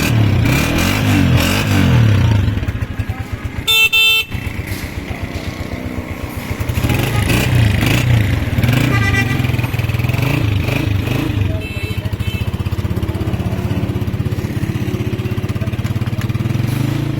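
Honda CG125's single-cylinder four-stroke engine running, revved for the first couple of seconds and again around seven seconds in, then settling to an even idle. A short horn beep sounds about four seconds in.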